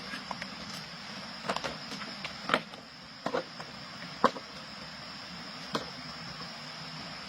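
Insects keep up a steady high-pitched chirring, with half a dozen short, sharp clicks and knocks scattered through it. No engine is running.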